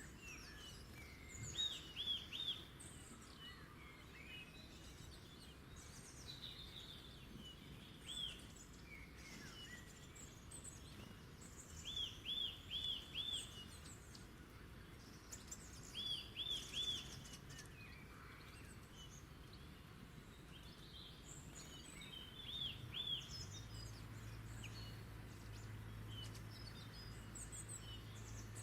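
Several small wild birds singing and chirping; one repeats a short phrase of three or four quick arched notes every few seconds, among scattered higher chirps. A low steady hum comes in near the end.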